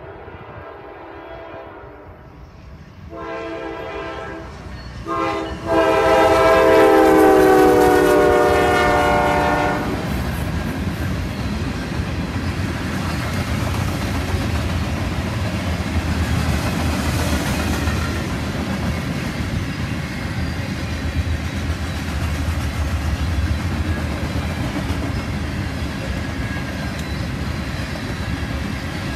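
Norfolk Southern freight train's horn sounding as it approaches, several tones at once: faint at first, a blast about three seconds in, then a loud, long blast from about six to ten seconds in. Then the train passes close by, loaded grain hopper cars rolling past with a steady rumble and clatter of wheels on the rails.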